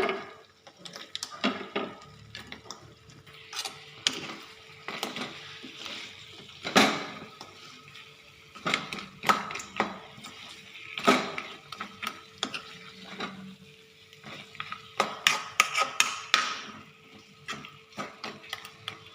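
A cooking spoon knocking and scraping against a pan as chicken pieces are stirred and fried in masala, in irregular clatters.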